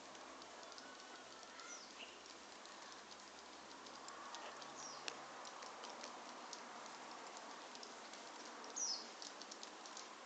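A flock of swallows calling faintly: a few short, high chirps scattered over a steady hiss, with light ticks in between.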